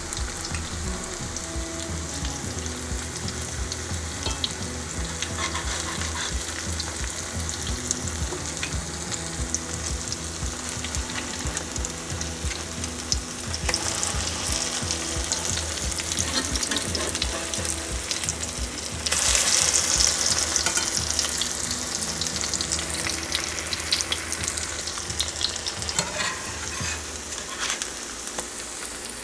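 Cornbread patties sizzling in hot corn oil in a cast iron skillet. The sizzle grows louder about fourteen seconds in and is loudest around nineteen seconds in, as patties are turned over into the oil. A few light clicks of a utensil sound near the end.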